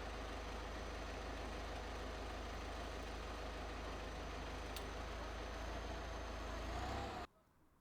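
Engine of heavy machinery running steadily, rising a little in pitch near the end, then cut off abruptly.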